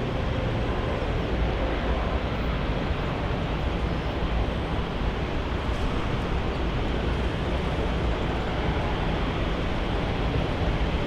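Steady jet aircraft engine noise, a constant rumble and rush with no rise or fall in pitch.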